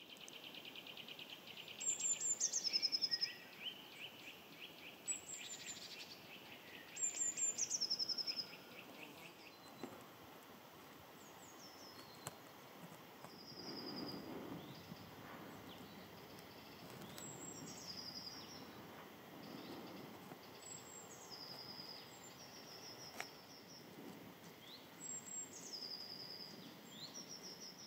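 Songbirds singing: a short phrase of high notes stepping down in pitch, repeated about six times, and a loud pulsing trill through roughly the first nine seconds, over a faint outdoor background hiss.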